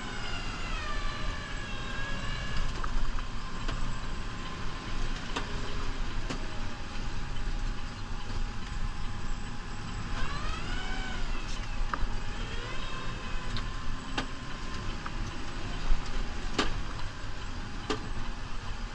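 New Holland Powerstar 75 tractor engine running steadily under plowing work. A rising-then-falling whine comes at the start and again about ten seconds in, and there is a sharp click near the end.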